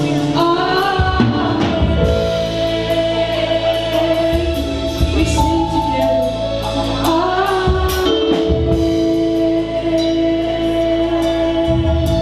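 Gospel music with singing over a band of drums, guitar and keyboard.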